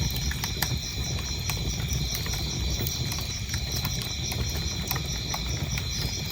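Wood fire crackling in a fireplace: irregular sharp pops and snaps over a low, steady rumble of flame. Crickets chirp throughout in a high, evenly pulsing trill.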